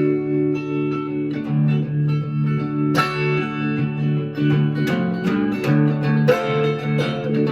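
Blues guitar music: an instrumental passage of picked notes over a repeating low bass figure, with no singing.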